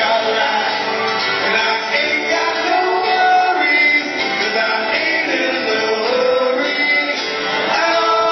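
Live rock band playing a song with a sung vocal line over the instruments.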